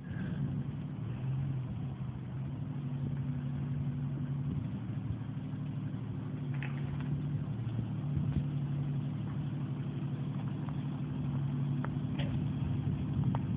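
1992 Jeep Cherokee's engine running steadily at low revs while it slowly backs a boat trailer.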